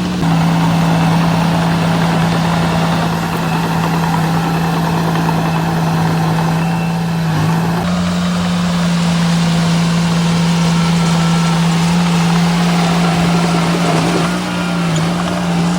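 Heavy-equipment diesel engine running at a steady pitch, with a brief dip about seven and a half seconds in.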